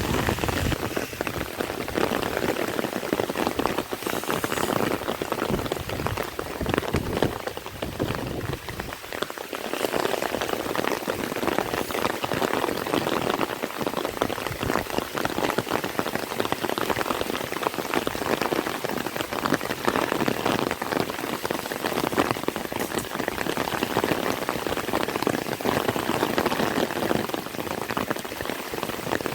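Heavy rain falling steadily, a dense patter of many drops on surfaces.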